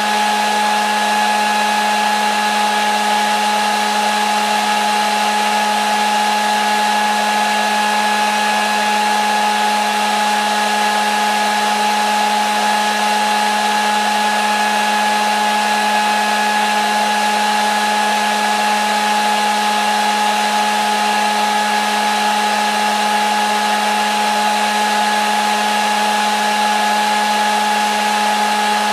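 Hair dryer running continuously at one setting: a steady whooshing hiss with a fixed motor whine, unchanging throughout, used as sleep noise for a baby.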